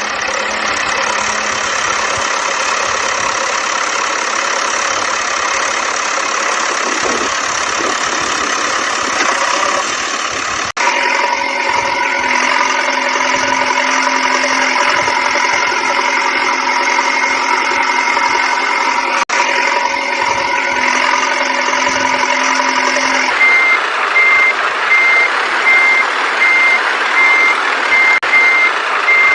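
Electronic engine sound from a toy vehicle's sound module: a steady tinny loop with no deep bass that cuts and restarts twice. About two-thirds of the way through it changes to a repeated reversing beep.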